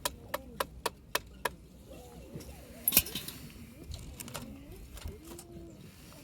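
Dry firewood snapping and crackling: a quick run of sharp cracks, three or four a second, over the first second and a half, a louder crack about three seconds in, then scattered smaller ones.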